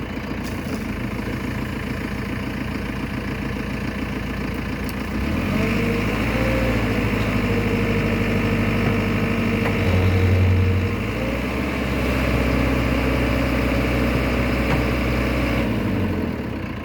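JCB 3CX backhoe loader's diesel engine running. About five seconds in it speeds up and gets louder, with a steady whine over it, peaks around ten seconds, and falls back near the end.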